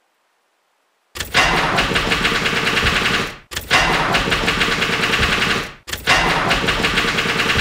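A car engine being cranked by its starter motor, three tries of about two seconds each with short breaks between, never catching: a car that won't start.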